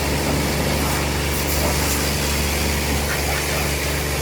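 A motor running steadily under a loud, even hiss.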